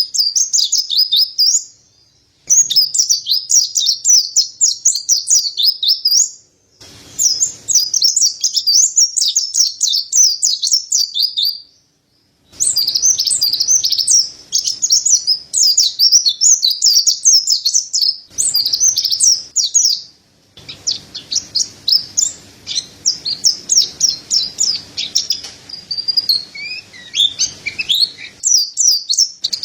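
Mountain white-eye (pleci dada putih) singing: long runs of rapid, high twittering notes in phrases several seconds long, broken by short pauses.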